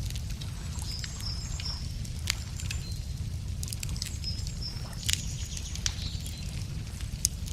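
Wood fire crackling with scattered sharp pops over a steady low rumble, while small birds give short high chirps twice.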